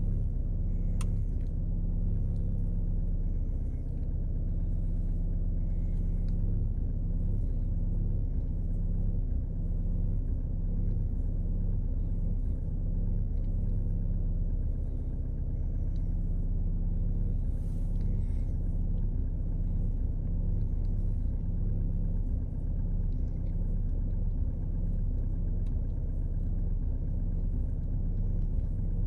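Volkswagen Passat B8 Alltrack 2.0 TDI's four-cylinder turbodiesel idling cold with a steady low rumble. This is the bad idle noise that shows up only with a cold engine in cold weather, and its cause is unknown.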